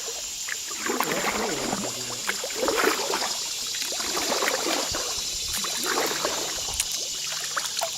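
Creek water running steadily, with indistinct low talk over it.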